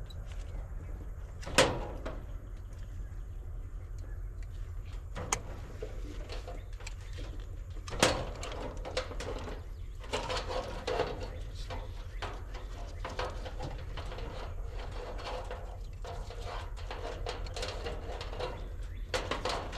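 Three sharp knocks in the first eight seconds, then a run of lighter clattering, from tools and equipment being handled during HVAC work, over a steady low hum.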